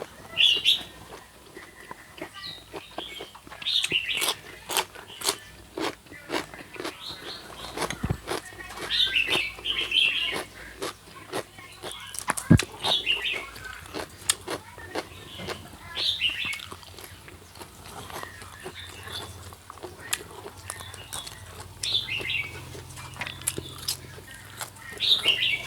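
Small birds chirping in short bursts every few seconds, over a steady run of small clicks and crunches from someone eating.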